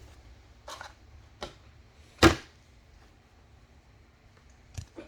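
Trading cards being handled on a table: a few short rustles and taps, the loudest a quick swish and thud about two seconds in.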